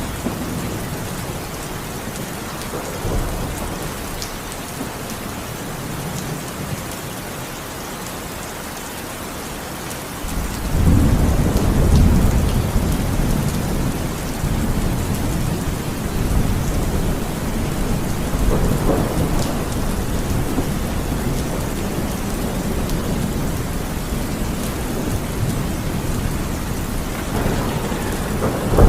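Heavy rain falling steadily, with a long, deep roll of thunder building about a third of the way in and fading over several seconds, a weaker rumble later, and a sharp thunderclap at the very end.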